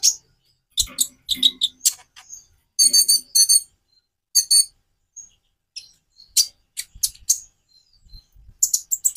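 Konin (kolibri ninja sunbird) singing: quick, sharp, high-pitched chirps in short clusters separated by brief pauses, with a denser run of chirps near the end.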